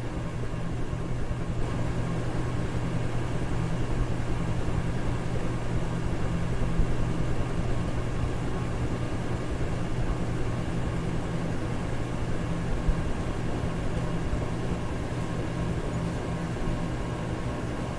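Electric fan running steadily: an even rushing of air over a low motor hum, with a few faint steady tones above it.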